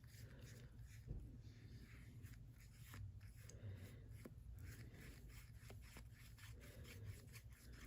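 Faint strokes of a paintbrush spreading matte medium across a playing card, with a few light clicks.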